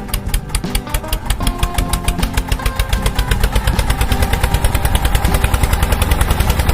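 Mini tractor engine chugging in an even run of about ten beats a second, getting a little louder about two-thirds of the way through.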